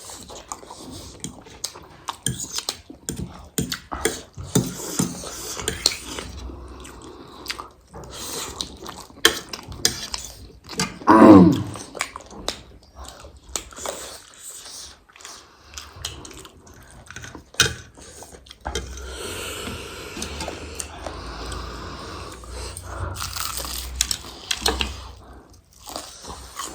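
Close-up eating sounds: chewing, biting and crunching into fried chicken lollipop and noodles, with many short wet clicks and crackles. About eleven seconds in comes a brief falling voice sound, the loudest moment.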